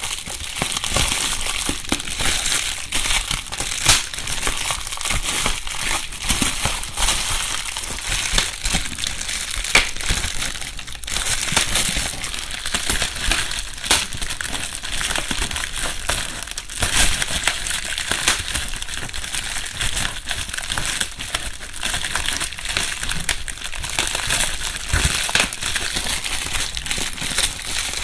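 Bubble wrap (plastic air-cap packing material) being rustled and crumpled by hand, a continuous crinkling with many sharp clicks, recorded binaurally.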